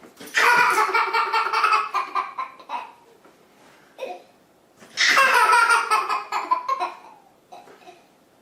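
Two long bouts of high-pitched, pulsing laughter, the second starting about five seconds in.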